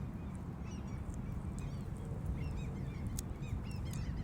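Birds calling outdoors: many short, arching chirp notes, several a second, over a steady low rumble.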